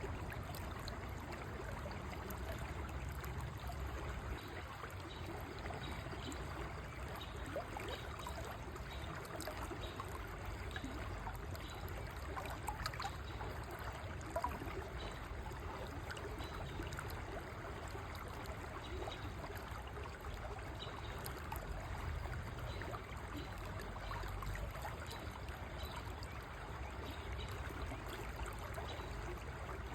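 River water flowing over stones: a steady rushing and trickling with many small splashes and gurgles.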